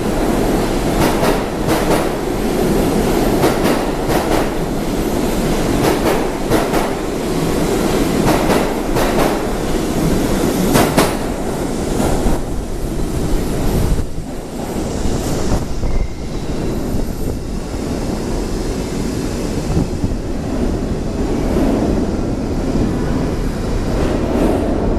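R68A subway train pulling out, its wheels clicking over rail joints above a steady rumble. About halfway through the clicks thin out and the rumble eases as the train gets away.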